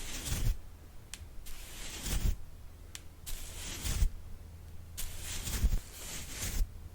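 ASMR brush strokes: a soft brush swept with a swishing hiss, about six strokes at roughly one a second, some with a faint low thud.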